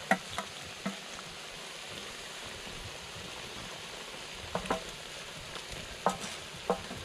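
Food sizzling as it fries in a pan while it is stirred, a steady hiss with a few short knocks and clicks.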